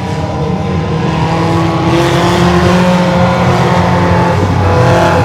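Mini monster truck engine running hard at fairly steady revs, its pitch holding with small shifts.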